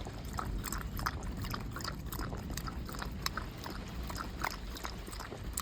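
Light rustling and small clicks of a blackout-curtain kit and its fabric being handled, over a steady low rumble.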